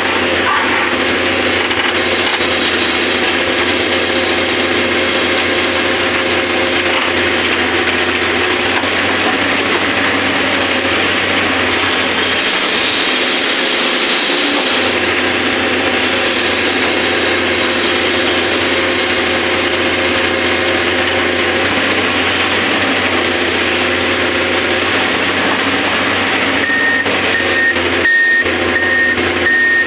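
Excavator running steadily as it works. Near the end a repeating high warning beep starts up over it.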